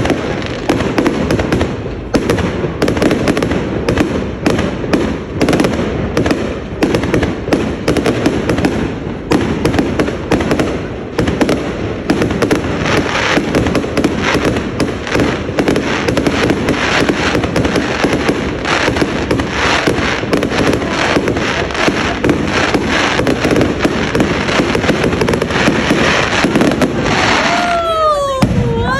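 Fireworks display: dense, rapid bangs and crackling with hardly a gap. A short falling tone sounds near the end.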